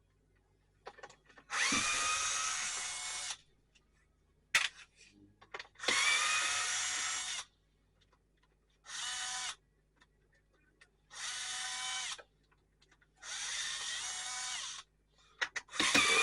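Power drill undoing the screws of a radio's front panel, in six short runs of motor whine, each one to two seconds long, with clicks in the pauses between screws.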